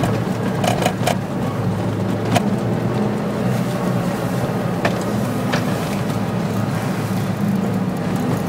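Suzuki Jimny's 1.3-litre petrol engine and road noise heard from inside the cabin while driving in traffic: a steady hum that shifts a little in pitch, with a few light clicks.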